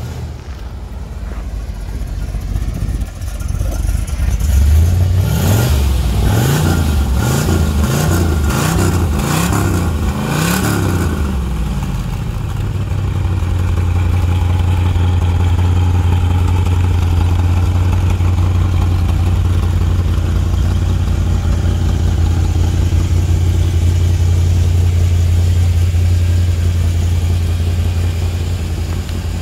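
1970 Plymouth Barracuda's 440 cubic-inch Six Barrel V8, fed by three two-barrel Holley carburettors, revved in a quick series of blips, each rising and falling, then settling about halfway into a steady idle.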